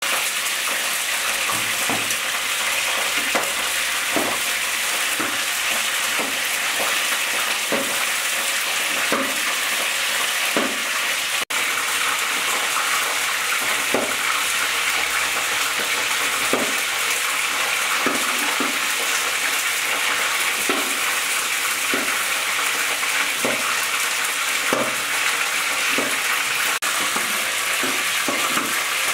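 Food sizzling steadily in hot oil in a pan, with soft knocks of a stirring spoon about once a second.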